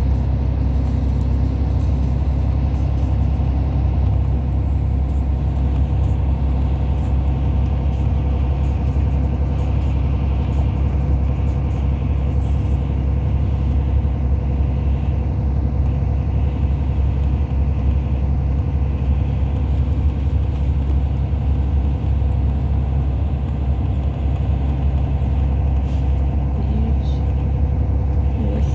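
Hyundai Universe Space Luxury coach under way, heard from inside the passenger cabin: a steady low engine and road rumble.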